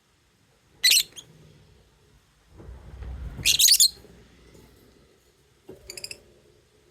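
Lovebirds giving short, shrill chirps in three bursts: one about a second in, the loudest in the middle, and a softer one near the end. A low rumbling noise comes just before the loudest burst.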